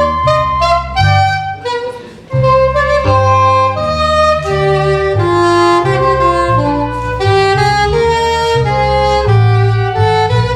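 Live instrumental ensemble playing a piece in several parts over a sustained low bass line, with a brief break in the phrase about two seconds in.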